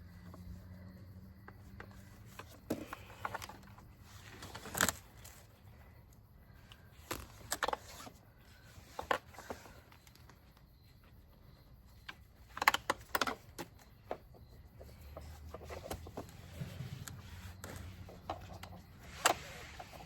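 Car seat being handled: irregular clicks and metallic clinks of harness buckles and plastic parts, a few sharper knocks among them.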